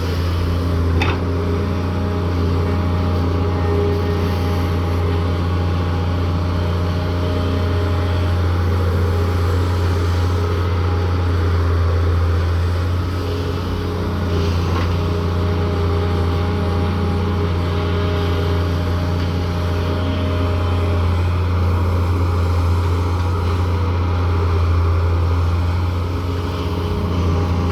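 Heavy diesel engine of a Daewoo 170W3 wheeled excavator running steadily under working load, with a low hum that swells and eases slightly. There is a brief metallic click about a second in.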